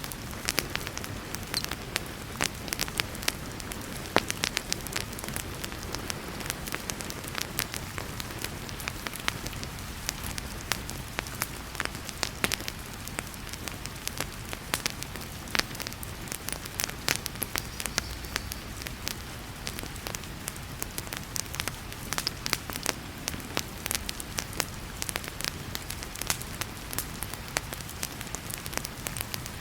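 Wood fire crackling and popping in irregular sharp snaps over a steady hiss of heavy rain.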